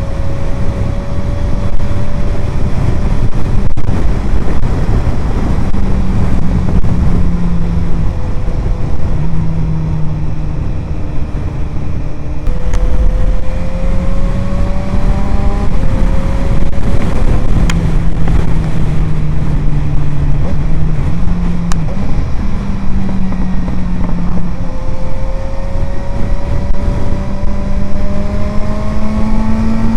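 Suzuki GSR 750 inline-four engine through an aftermarket Ixrace Z7 exhaust, under way and pulling through the gears: the engine note climbs, then drops abruptly and climbs again several times as it shifts up on the quickshifter, with heavy wind rumble throughout.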